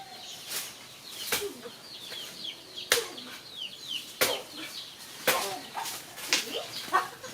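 A blade chopping into a soft, wet banana trunk, about seven strokes roughly a second apart, irregular in spacing. Small birds chirp faintly under the strokes.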